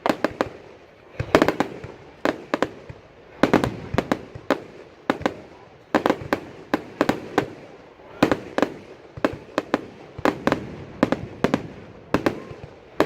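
Fireworks going off: rapid clusters of sharp bangs, two to five at a time, repeating every second or so, each cluster trailing off in a short echo.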